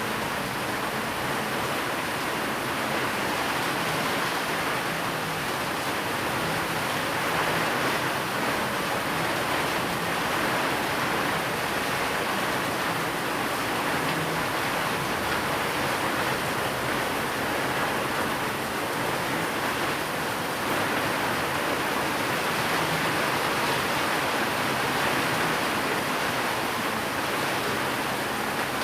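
Steady, unbroken rainfall, an even hiss with no thunder.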